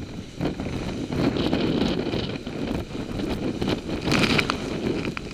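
Hurricane wind gusting hard against the microphone, a rumbling rush that swells and drops, with a louder, hissier gust about four seconds in.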